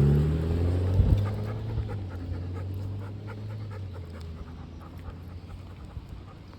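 A dog panting steadily while a passing vehicle's low engine hum fades away over the first few seconds, with a sharp thump about a second in.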